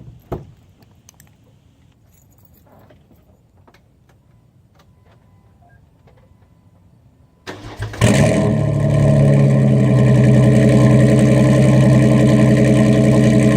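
2010 Jeep Wrangler's 3.8-litre V6, fitted with long-tube headers and a 2.5-inch exhaust with a MagnaFlow 60 series, started from cold quiet: a few faint clicks, then a brief crank, and the engine catches about eight seconds in and settles into a loud, steady idle.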